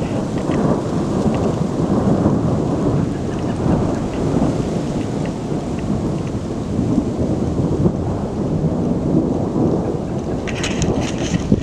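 Long, continuous low rumble of thunder from a lightning storm, with a short burst of crackles near the end.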